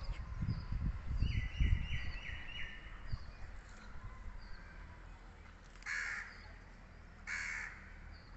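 Birds calling: a quick run of about five short calls stepping down in pitch, then two harsh calls about a second and a half apart. Low knocks and rumble on the microphone in the first couple of seconds.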